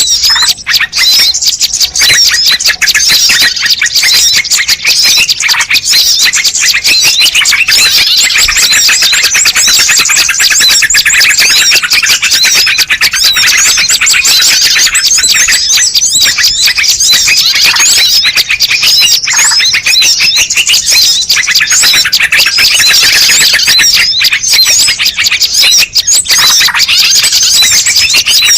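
Loud, dense, unbroken high-pitched chirping and trilling of small birds, a bird-lure (pikat) recording made to draw wild birds in.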